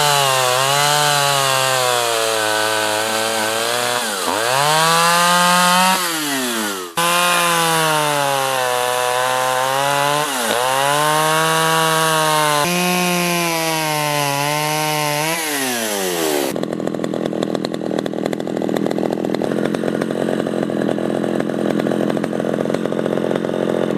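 Echo 440 EVL two-stroke chainsaw running at full throttle through test cuts in wood. The engine pitch sags as the chain bogs in the cut and climbs again as it frees, several times over. Near the end the throttle is released and the saw settles to a steady idle.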